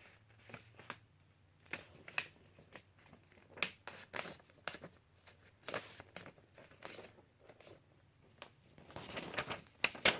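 A sheet of paper being folded and creased by hand: irregular rustles and crackles, busier near the end.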